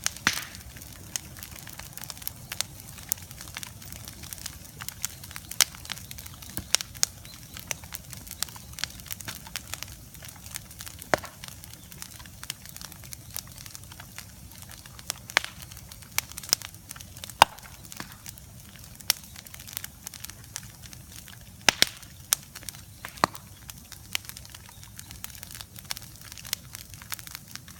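Open bonfire crackling, with irregular sharp pops and snaps over a steady low rush of burning.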